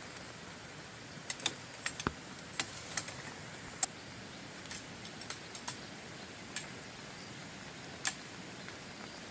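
Steady hiss of rain with about a dozen sharp, irregular clicks and taps, bunched in the first four seconds, with a louder one near the end.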